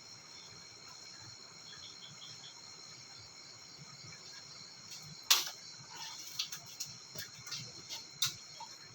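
Steady high chirping of crickets and other insects. A sharp loud click comes a little past halfway, followed by a scatter of smaller clicks and taps from handling.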